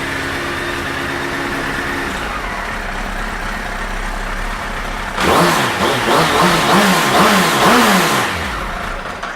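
2007 Suzuki Hayabusa's inline-four engine idling steadily, then revved in about five quick throttle blips a little past halfway, before settling back toward idle near the end.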